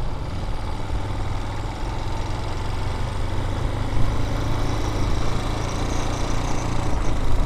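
Vitacci Raven 250 dirt bike's air-cooled 250 cc engine running steadily under the rider, with no revving.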